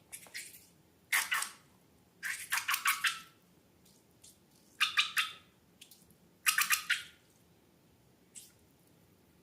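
Slime being squeezed and worked by hand: short bursts of wet, crackling clicks, about half a dozen with pauses between.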